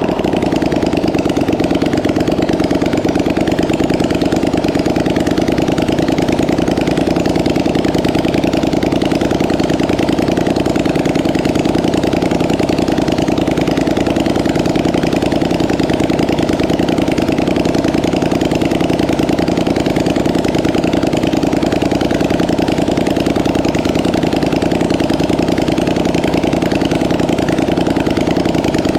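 Polaris Sportsman 850 quad's parallel-twin four-stroke engine idling steadily, running again after years of sitting unused.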